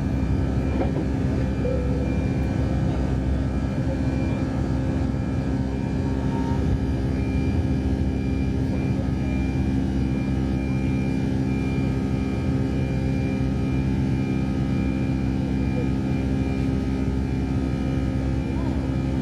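Airbus A319 cabin noise in flight: a steady drone of jet engines and airflow with several fixed tones, holding even throughout.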